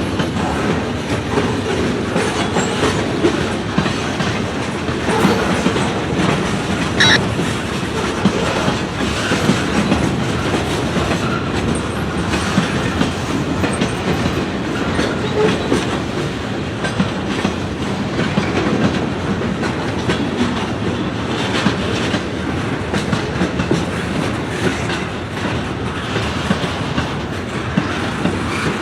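Freight train cars rolling past, the steel wheels clicking steadily over rail joints.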